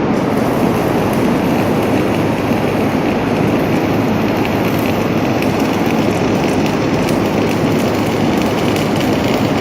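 Electric arc welding: a steady, dense crackling sizzle.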